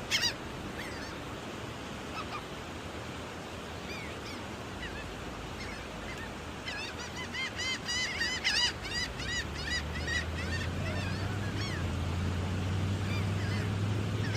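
Gulls calling, many overlapping calls over a steady background noise, with a dense burst of rapid calls in the middle. A low steady hum comes in about two-thirds of the way through.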